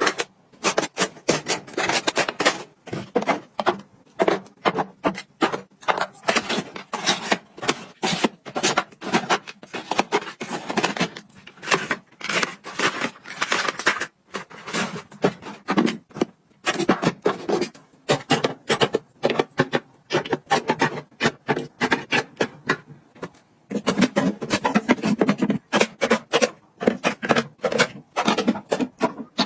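Small objects being handled, rubbed and set down in quick succession: a dense, irregular run of clicks, taps and rubbing sounds.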